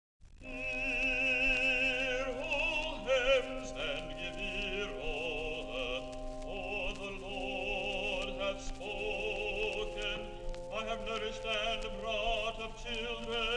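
Choir singing in slow, sustained chords with vibrato, starting about half a second in.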